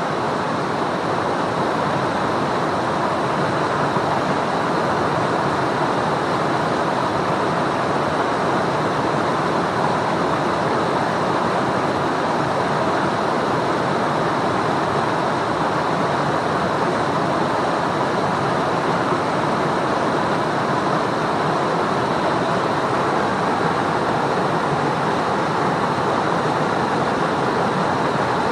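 Fast mountain river rushing: a loud, steady, even rush of water with no breaks.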